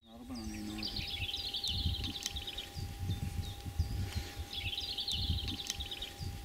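A bird singing two rapid trilled phrases, each about two seconds long, over a low gusty rumble and a faint steady hum.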